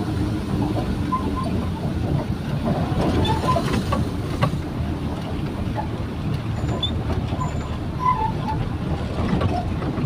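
Truck driving, heard from inside the cab: a steady engine and road rumble with scattered rattles and short squeaks.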